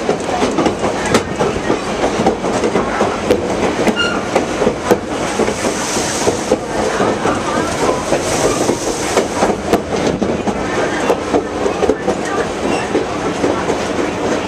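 White Pass train rolling along the track: a steady rumble of railroad cars with frequent irregular clicks and clatter from the wheels and couplings.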